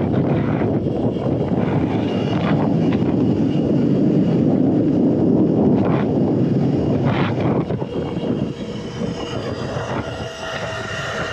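Wind rushing over the microphone and riding noise from a moving Surron electric dirt bike. It eases off after about eight seconds, leaving a faint steady whine.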